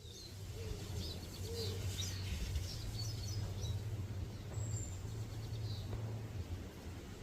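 Small birds chirping in short, quick calls over a steady low hum.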